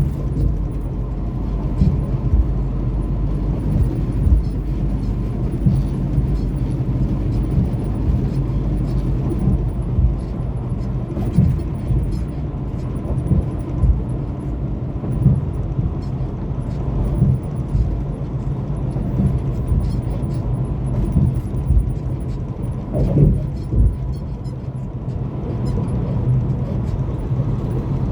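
Semi truck's diesel engine running steadily on the road, with road noise and irregular low thumps.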